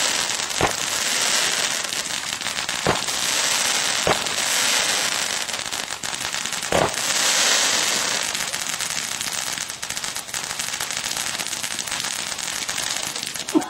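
Fireworks going off: four sharp bangs spread over about seven seconds, with crackling hiss around them that thins out in the last few seconds.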